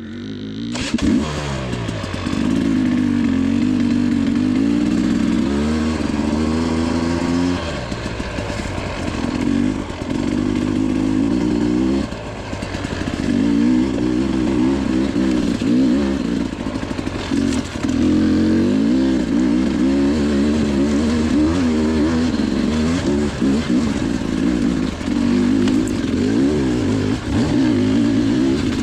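Dirt bike engine revving up and down as the throttle opens and closes on a trail ride, with short drops in pitch several times, typical of shifts and backing off the throttle.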